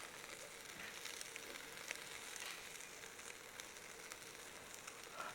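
Meat sizzling over charcoal on a shichirin grill: a steady hiss with many small crackles and pops.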